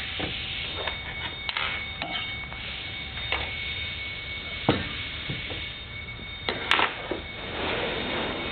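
Irregular light clicks and knocks from chop saw parts being handled and fitted back together during reassembly, the sharpest about two-thirds of the way in, over a faint steady high whine.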